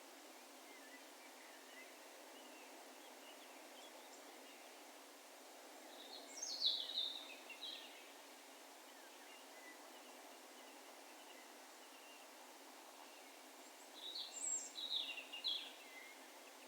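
A bird singing two short phrases of high notes that fall in pitch, about six seconds in and again near the end, over a steady low background hiss, with faint, scattered bird calls in between.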